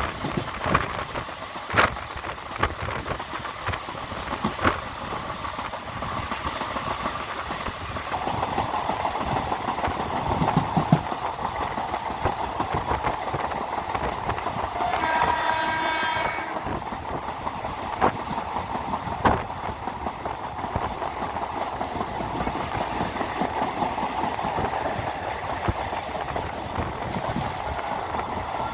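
Train running on the rails, a steady rumble with scattered wheel clicks over the rail joints. About halfway through, the train's horn sounds once for about a second and a half.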